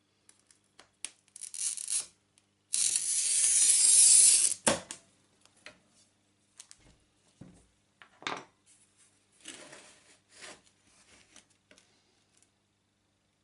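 Hand work at a glass-cutting bench: scratchy scraping or brushing strokes, the longest lasting about two seconds, among light taps and clinks of glass and tools.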